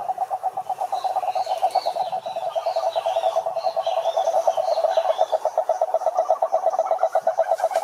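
Frog or toad chorus: a rapid, steady pulsed trill of about eight pulses a second, with fainter higher rising-and-falling calls above it from about a second in until about five seconds in.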